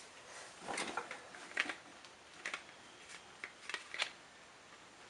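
Handling noises: a series of short rustles and light clicks, about six spread over a few seconds, as small parts or packaging are handled by hand.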